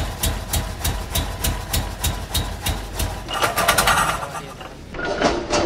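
Honda H22A VTEC four-cylinder engine idling, with a fast, even ticking of about three to four ticks a second over a steady low hum. About three seconds in the sound turns to a denser clatter, which fades and then changes abruptly near the end.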